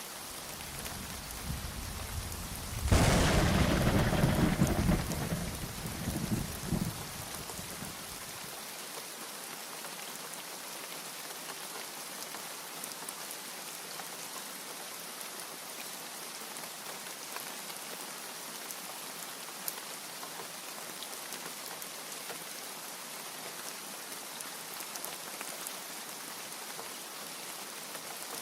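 Steady rain with one thunderclap. A low rumble builds about half a second in and breaks into a loud crack about three seconds in, then rolls away by about eight seconds, leaving only the rain.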